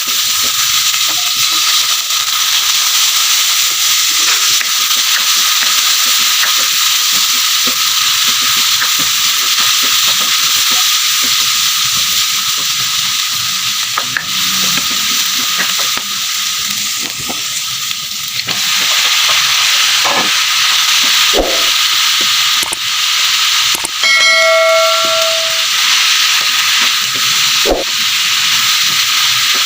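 Food sizzling in a hot pan, with occasional clicks and scrapes of a utensil stirring. About 24 seconds in, a short pitched tone sounds for about a second and a half.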